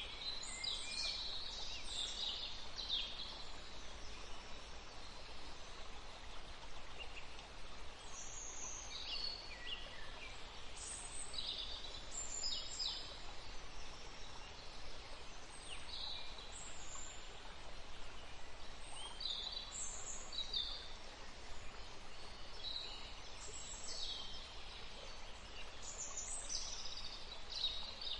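Songbirds chirping and trilling in a forest, short high calls coming in clusters over a steady faint background hiss.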